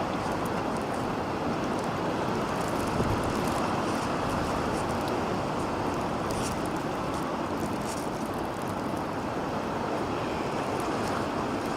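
Strong nor'easter wind blowing steadily, an even rushing noise with a few faint high ticks.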